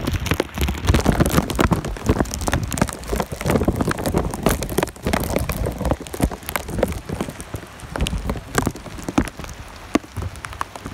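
Rain falling steadily, with a dense run of sharp drop hits close by.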